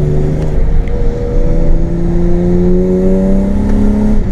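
BMW M52B28 2.8-litre straight-six with a straight-piped exhaust, pulling under throttle. After a short break in the note about a second in, the revs climb steadily.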